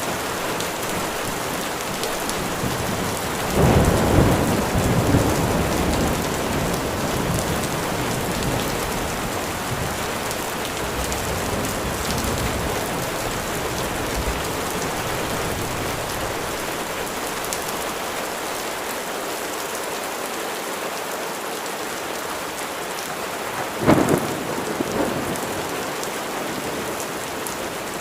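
Steady rain falling, with a long low rumble of thunder about four seconds in and a short, sharper thunderclap near the end.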